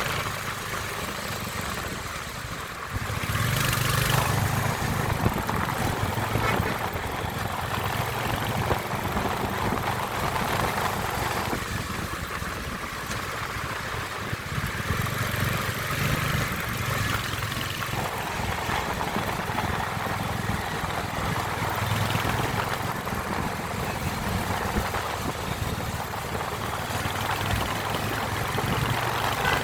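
Royal Enfield Hunter 350's single-cylinder engine running steadily, its low exhaust note getting louder about three seconds in.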